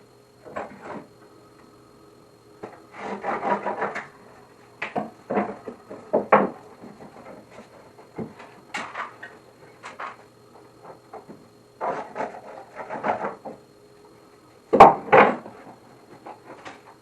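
Wooden boards being handled and shifted: irregular knocks, scrapes and clatters of wood on wood, in short bursts with pauses between, the loudest a sharp knock about 15 seconds in.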